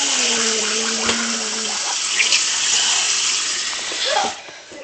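Tap water running hard into a sink, shut off about four seconds in. A steady low hum sits under it for the first couple of seconds.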